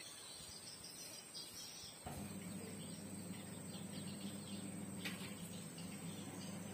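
Faint background of a steady high-pitched insect drone with a few faint bird chirps. A low steady hum starts about two seconds in, and there is a single click about five seconds in.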